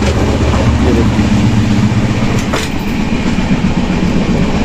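Running noise of a moving Indian Railways passenger coach heard from inside, by the door and washbasin area: a steady low rumble with rattling, and one sharp clank about two and a half seconds in.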